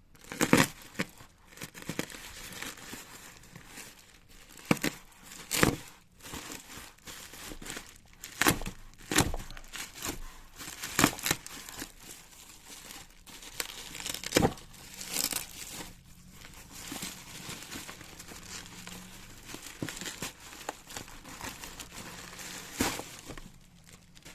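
Parcel packaging being torn open and unwrapped by hand: irregular crinkling and crackling with sharp rips as the wrapping and tape are pulled off.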